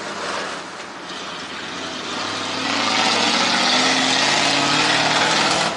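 Motor vehicle passing close on a street, engine and tyre noise building to its loudest over the last three seconds, then cutting off abruptly.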